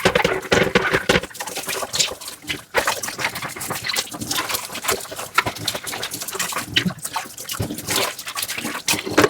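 Dishes being hand-washed with a soft sponge: irregular scrubbing and rubbing with frequent clinks and knocks of dishware, and a little water.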